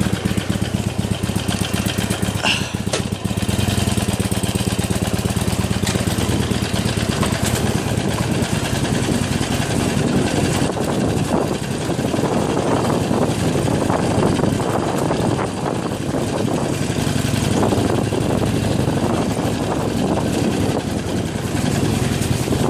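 Harley-Davidson Iron 883's air-cooled 883 cc V-twin engine running, with a short dip in level about three seconds in.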